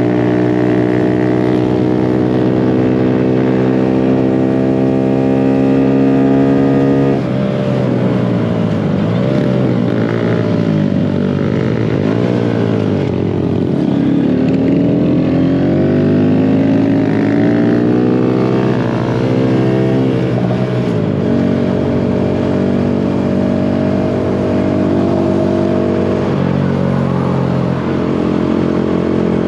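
Mini bike engines running on a ride. Steady for about seven seconds, then rising and falling again and again for about fourteen seconds as the throttle is worked, then steady once more.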